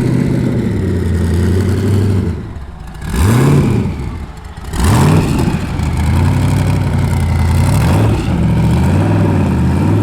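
A vehicle engine running steadily, blipped twice with quick revs about three and five seconds in, the pitch rising and falling back each time.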